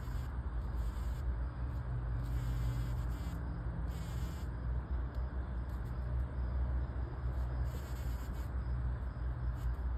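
Bee buzzing close by, over a steady low rumble.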